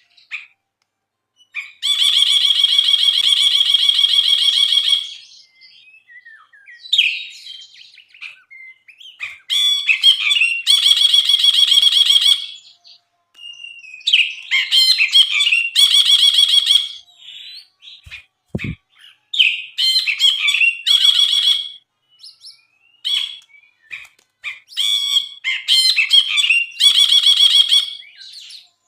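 Brinji (a bulbul) singing in loud bursts: long buzzy, rattling trills of two to three seconds alternate with shorter varied chattering phrases, with brief pauses between. A single soft low thump comes a little past the middle.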